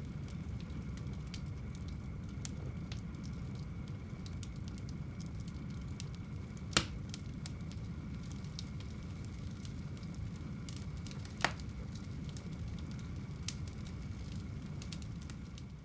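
Wood fire burning in a home fireplace: a steady low rumble of flame with scattered small crackles and two sharper pops, about seven and eleven and a half seconds in.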